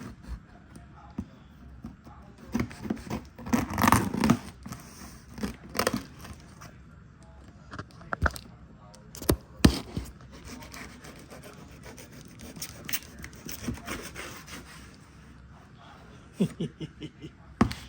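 A mail package being cut and torn open by hand: irregular scraping, rubbing and tearing with scattered sharp clicks and rustles.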